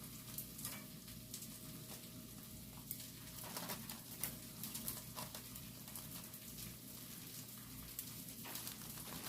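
Chive pancake batter frying in oil in a pan, a steady faint sizzle with scattered small crackles and pops.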